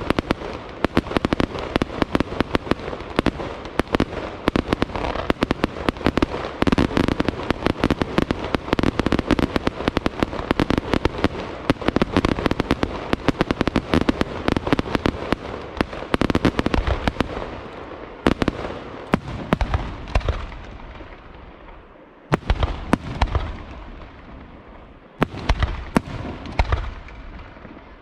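Aerial fireworks display: a dense, continuous barrage of shell bursts and crackling bangs that thins out and dies down about two-thirds of the way through, followed by two shorter flurries of bursts near the end.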